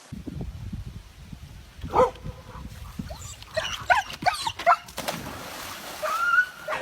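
Short, high-pitched animal yelps and whines that bend in pitch: one about two seconds in, a quick run of them between three and a half and five seconds in, and another near the end, over low rumbling noise.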